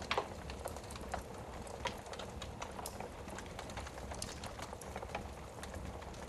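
Wood fire burning in a fireplace, crackling with irregular pops and snaps over a steady low rumble, one sharper pop just after the start.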